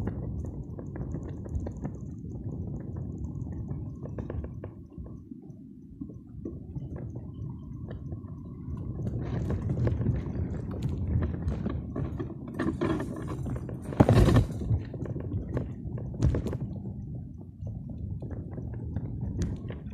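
Water sloshing and splashing, with scattered clicks and knocks and a louder knock about two-thirds of the way through.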